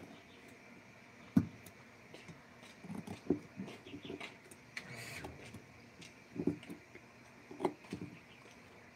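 Irregular knocks and taps, as of hard objects being handled. The sharpest comes about a second and a half in, and a brief scrape falls near the middle.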